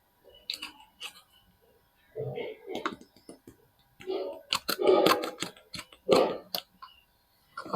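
Soap packaging being handled and unwrapped: crinkling and rustling wrapper with sharp clicks and taps, in several uneven bursts, the busiest in the second half.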